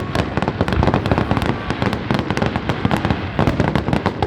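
Fireworks exploding in rapid succession, a dense string of overlapping bangs and crackling pops with no break.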